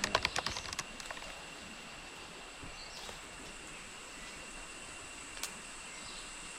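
Night rainforest insect chorus: a steady, high-pitched trilling at two unchanging pitches over an even hiss, opening with a quick run of sharp clicks in the first second.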